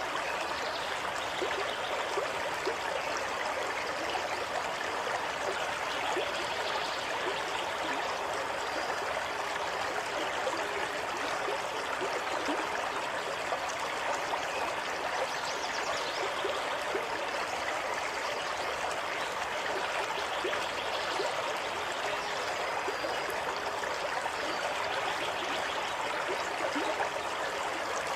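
Running water flowing steadily in an even, continuous rush, as of a stream.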